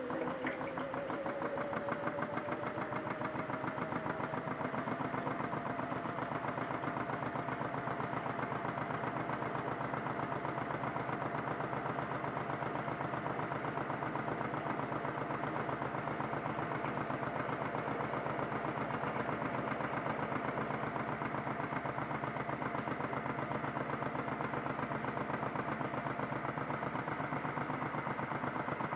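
Small motor of a modified toy Miele washing machine spinning the drum up. A whine rises in pitch over the first few seconds, then holds steady at speed with a fast, even pulsing, the drum spinning with an unbalanced load.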